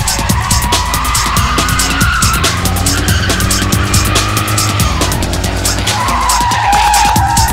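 A car's rear tyres squealing through a drift, with a sustained screech that wavers in pitch and grows strongest near the end. The engine revs underneath, climbing and falling around the middle. A fast, steady music beat runs alongside.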